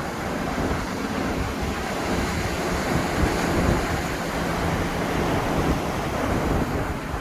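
Ocean surf washing onto the beach, a steady rush of breaking waves, with wind buffeting the microphone. A faint low hum joins about halfway through.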